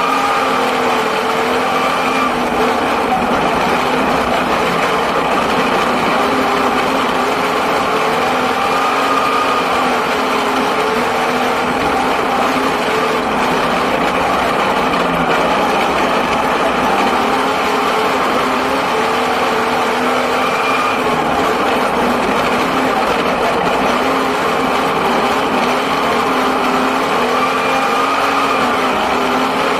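Six-cylinder speedway sedan engine heard from inside the cockpit, running continuously with its pitch rising and falling every few seconds as it laps the dirt oval.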